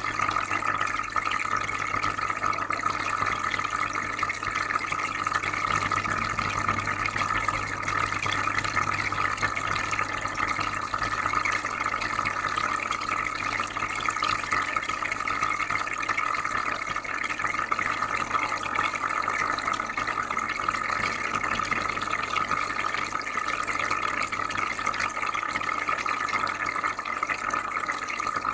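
Aquarium filter running, with steady bubbling and trickling water over a low hum. It keeps an even level and does not change.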